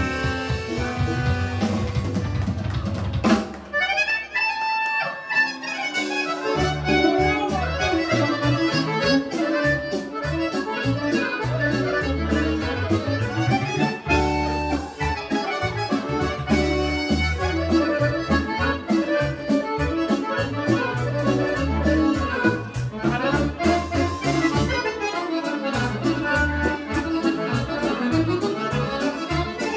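Serbian folk band playing a fast kolo medley led by accordion, with drums and bass keeping a steady dance beat. About 3 seconds in there is a sharp hit and the bass and drums drop out briefly, then the full band comes back in about 6 seconds in.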